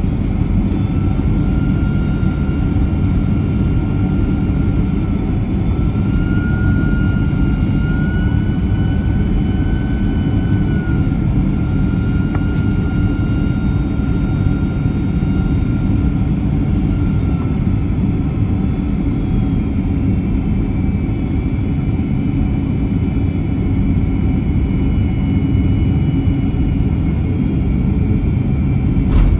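Boeing 767-300 cabin noise in flight: a steady low rumble of engines and airflow, with a faint whine that shifts slightly in pitch partway through.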